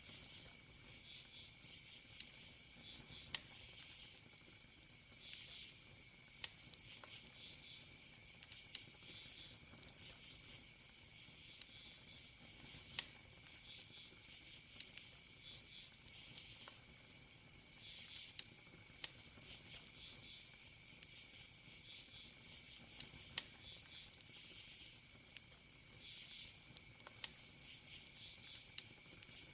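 Wood campfire crackling with frequent sharp pops, faint overall, over crickets chirping in repeated high-pitched bursts and a steady high insect tone.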